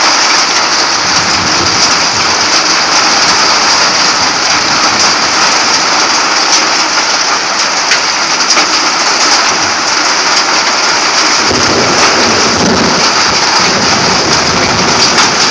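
Hail drumming on a vehicle's roof and windshield, heard from inside the cabin as a loud, dense, steady clatter of many small impacts.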